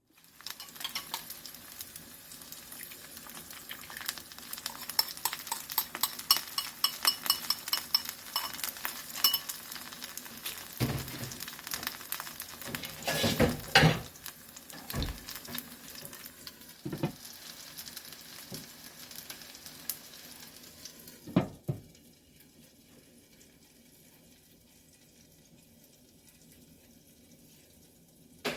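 Food sizzling and crackling in a frying pan while it is stirred, with a utensil clattering and knocking against the pan several times. The sizzling stops about 22 seconds in, leaving only a faint steady background.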